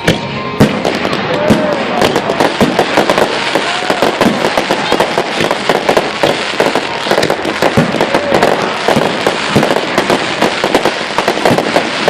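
Fireworks going off: a dense, rapid crackle of many small bangs that thickens under a second in and keeps up, with a few short gliding tones mixed in.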